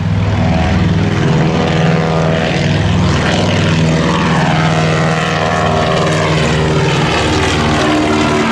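Fokker F.VIIb trimotor's three radial engines and propellers running as the aircraft flies past, loud and steady; the engine note falls in pitch from about three seconds in as it goes by.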